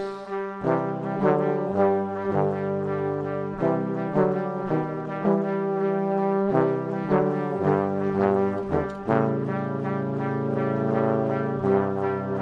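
Brass instruments playing music: held chords with shorter notes changing every half second or so.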